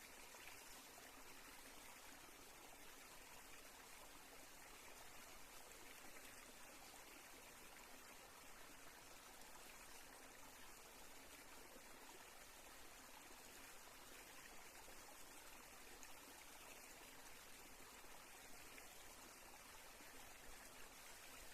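Near silence: a faint, steady hiss of outdoor ambience with no distinct events.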